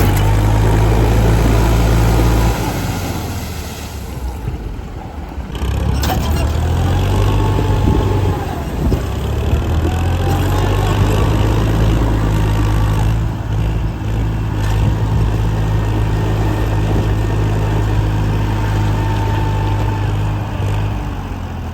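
A heavy vehicle engine running with a loud, steady low rumble. It eases off for a couple of seconds about three seconds in, then builds back up. A sharp click comes about six seconds in.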